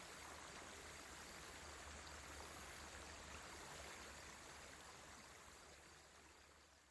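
Faint running water of a stream, steady at first and fading out over the last few seconds.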